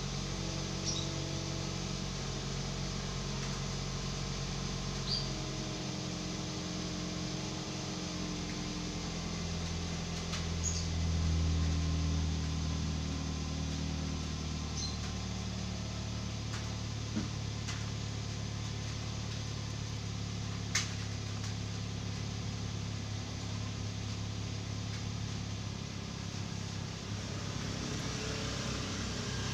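Toyota Vios car running steadily, its low engine hum shifting in pitch a few times and briefly swelling louder about eleven seconds in, with a few faint clicks.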